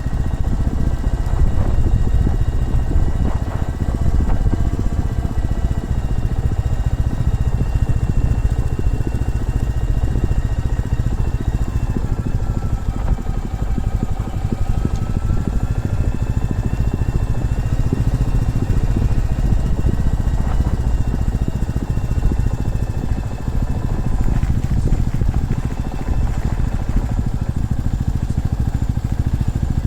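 Motorcycle engine running steadily while riding, over a heavy low rumble, its pitch dipping slightly and rising again midway.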